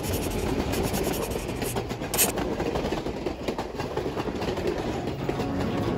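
Passenger train behind a diesel locomotive rolling past close by, its wheels clattering over the rail joints as the coaches go by, with a sharp clank about two seconds in.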